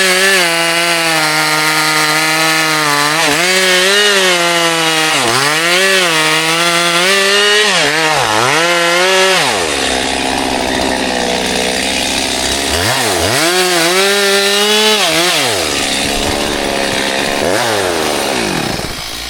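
Two-stroke chainsaw cutting wood at high revs, its engine pitch sagging and recovering again and again as the chain bites into the wood. About halfway it drops to a lower speed for a few seconds, then revs up and dips twice more before easing off near the end.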